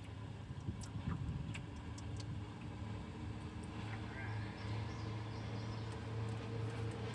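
A steady low engine hum, with a few light clicks over it.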